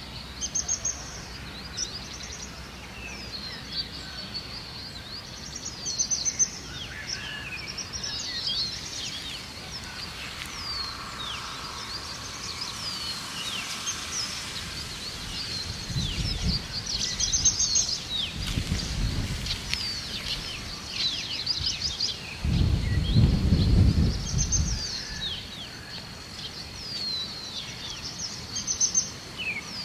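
Several birds chirping and singing together, with many short sweeping notes and one bright song phrase repeating about every five to six seconds. A few low rumbles come and go in the second half, the longest near the end.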